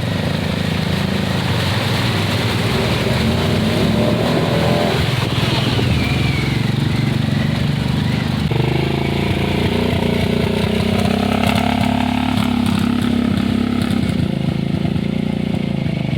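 ATV engine running hard and revving, its pitch changing about halfway through.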